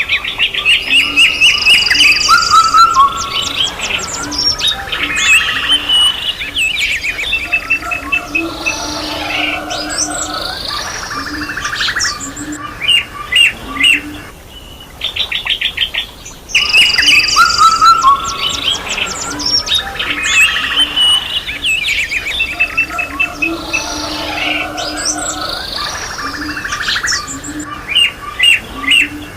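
Several songbirds singing and chirping together, with rapid trills and quick rising and falling whistles. The same stretch of birdsong repeats after about sixteen seconds, as a loop.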